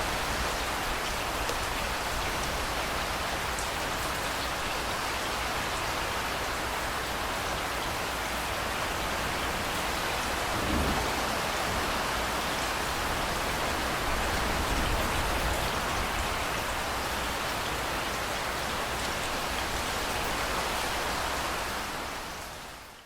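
Steady heavy rain falling and pattering on surfaces, with a low rumble swelling briefly about halfway through. The rain fades out quickly at the very end.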